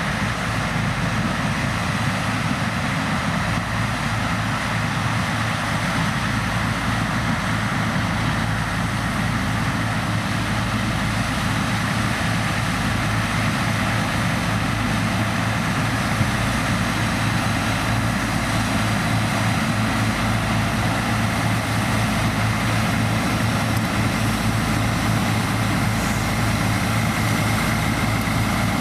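Heavy diesel farm machinery running steadily under load, a constant engine hum with a broad mechanical rush over it and no changes.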